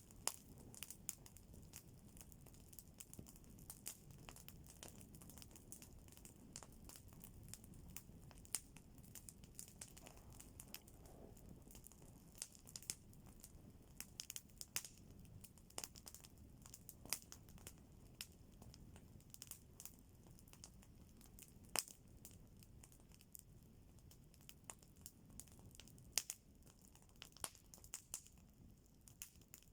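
Campfire crackling faintly, with irregular sharp pops and snaps of burning wood.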